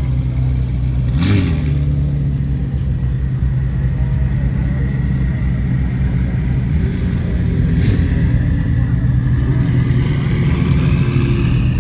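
A car engine idling steadily, with a short rev blip about a second in.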